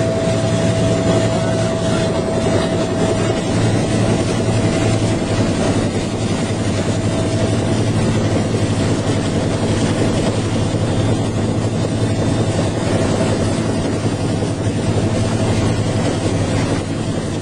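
Helicopter running steadily: a continuous rotor and turbine din with a steady high whine that fades about six seconds in.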